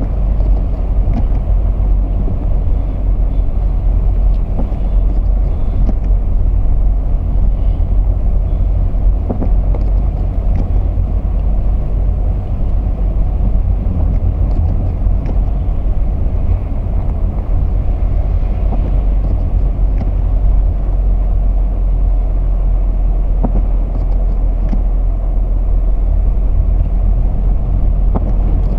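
A car on the move: a steady low rumble of engine and road noise, with a few faint ticks.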